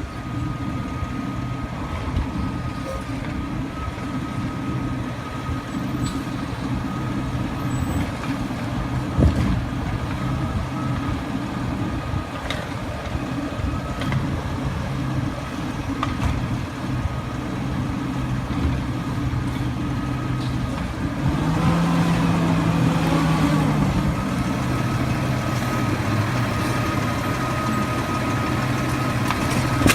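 Refuse truck's diesel engine running steadily, with a thin, steady high tone over it. About two-thirds of the way through, the engine note rises for a few seconds, then settles.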